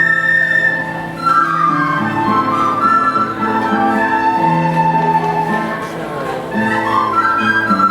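A children's recorder ensemble playing a melody together, with low accompanying bass notes underneath.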